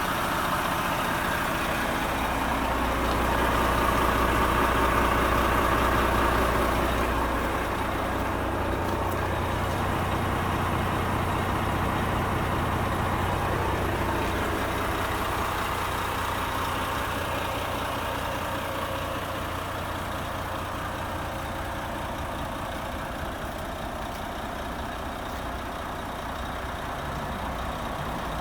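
Renault T460 tractor unit's diesel engine idling steadily. It grows louder a few seconds in, then slowly fades.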